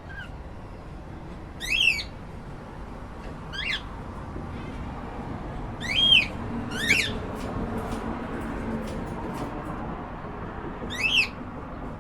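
Cockatiel calling: five short, shrill calls, each rising in pitch, spaced irregularly. Faint light ticks fall in between, about two-thirds of the way through.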